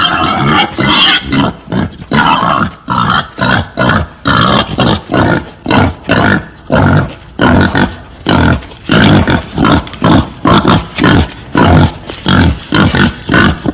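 Wild boar grunting in a rapid, loud series of short grunts, about two a second: a boar mating call used as a lure for hunting.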